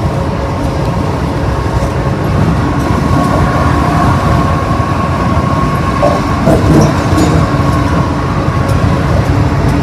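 Road and tyre noise heard inside a moving car at highway speed: a steady low rumble with a faint steady whine above it.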